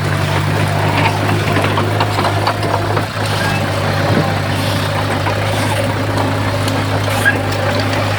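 Heavy diesel engine of earthmoving equipment running steadily, with a constant low hum and some clatter over it.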